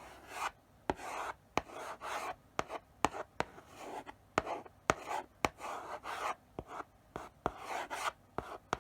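Chalk writing slowly on a blackboard: short scraping strokes broken by sharp taps as the chalk meets the board, a few to a second.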